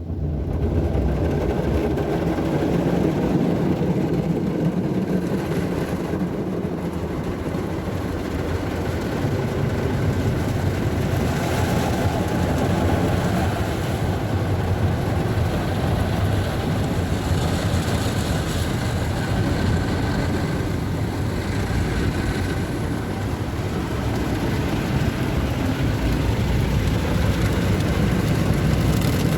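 Istobal MNEX 22 rollover car wash machine running over the car, a loud steady rushing noise of wash machinery that switches on abruptly.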